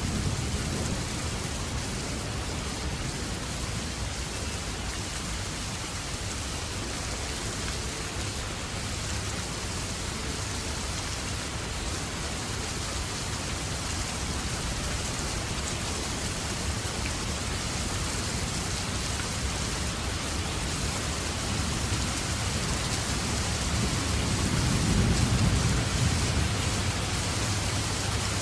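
Rain falling steadily, with a low rumble of distant thunder at the very start and another swelling about 25 seconds in.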